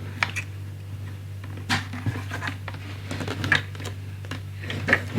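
Scattered light clicks and taps of hands handling a Singer EZ toy sewing machine and a needle threader while threading the needle, over a steady low hum.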